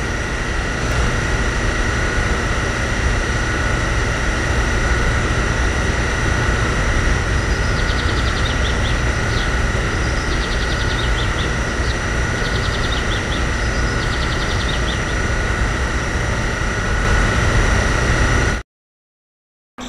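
Small motor running steadily with a constant whine and low hum, then cutting off suddenly near the end.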